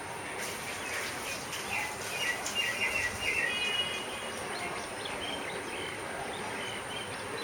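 Birds chirping in a quick run of short notes about two to four seconds in, over steady outdoor background noise with a faint continuous high tone.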